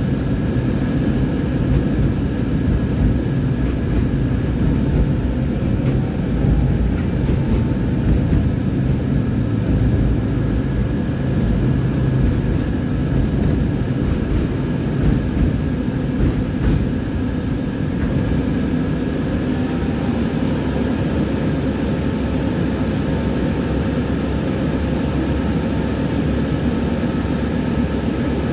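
Tram running along the rails, heard on board: a steady low rumble of wheels and running gear with a faint steady motor whine above it.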